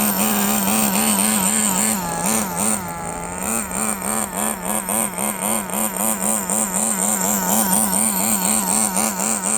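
Kyosho FW06 nitro RC touring car's small glow engine running during break-in, its high buzzing note wobbling up and down in pitch about twice a second. The pitch dips lower for a moment around two to three seconds in.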